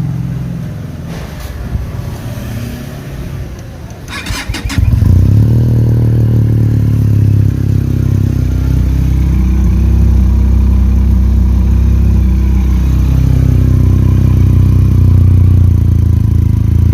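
Benelli TRK 502's parallel-twin engine with an Akrapovic exhaust, cold-started: the starter cranks briefly about four seconds in, the engine catches and then idles steadily and loudly.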